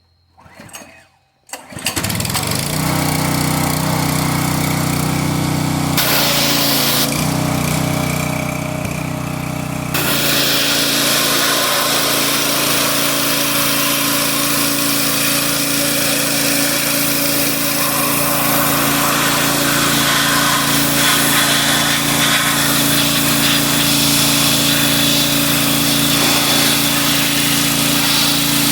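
A small engine-driven machine starts up suddenly and then runs loud and steady, its pitch shifting a little twice in the first ten seconds.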